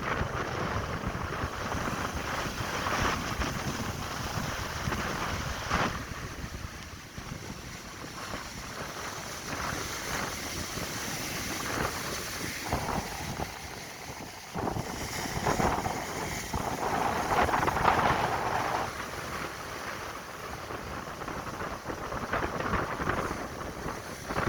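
Wind gusting hard across the microphone over ocean surf breaking and washing on the beach, whipped up by a hurricane offshore. The noise rises and falls with the gusts, with a stronger surge late on.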